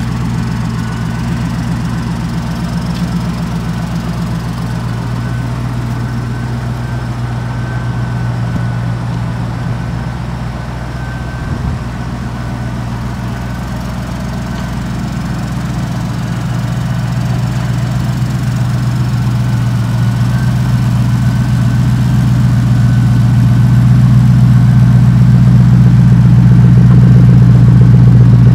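Shelby Series 1 engine running at a steady low idle, growing louder over the last dozen seconds.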